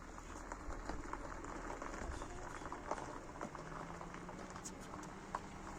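Liquid bubbling in a cooking pot, with many small scattered pops over a steady hiss.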